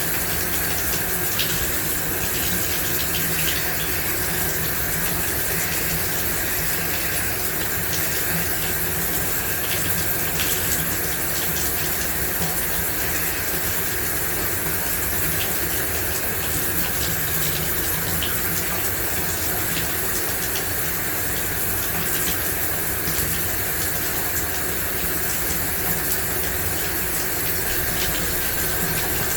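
Shower running steadily: water spraying from the showerhead and spattering, an even rushing noise with small scattered drips and ticks.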